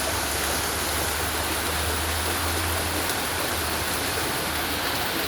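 Steady rush of heavy rain and running floodwater, an even noise with a low rumble underneath.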